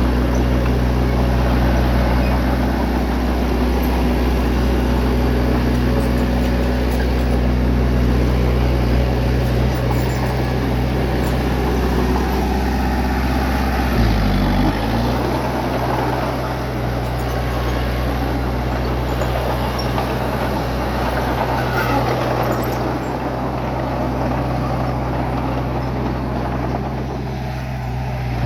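Bulldozer's diesel engine running steadily at work. Its note dips briefly about halfway through, then settles a little lower and quieter.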